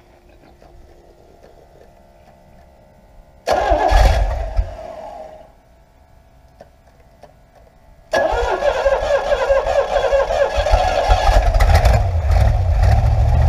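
Rebuilt Chevrolet small-block 350 V8 on an engine run stand on its first start after the rebuild: about three and a half seconds in it bursts into life and fades out within two seconds, then about eight seconds in it fires again, catches and keeps running loudly through a single muffler.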